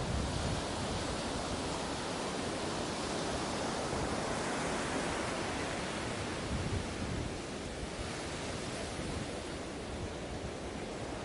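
Ocean waves washing onto a beach: a steady rushing surf that swells a little near the middle and eases off in the last few seconds.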